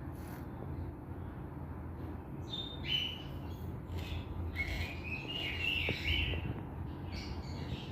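Budgerigar chirping: a short chirp about three seconds in, then a longer warbling phrase of chirps, over a steady low hum.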